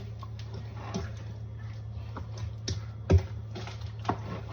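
Light kitchen clatter: irregular clicks and knocks of utensils and dishes over a steady low hum.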